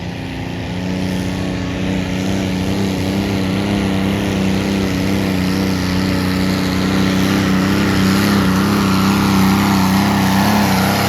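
Farm tractor engine running hard under full load while pulling the weight sled, a steady drone that grows louder through the run.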